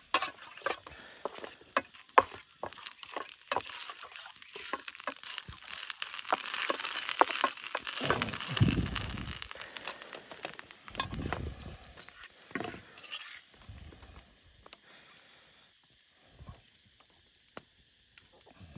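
Irregular crackling and rustling with many sharp clicks, under a hiss that swells in the middle and then fades, with a few brief low rumbles near the peak.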